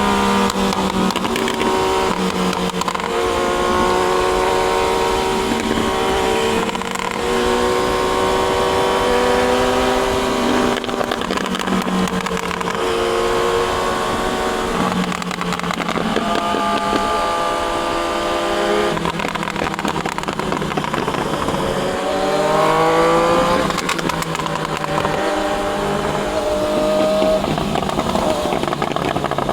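Triumph Daytona 660's inline three-cylinder engine under way, running through the gears with brief dips in pitch at the shifts and a sharp rise in revs about two-thirds of the way through.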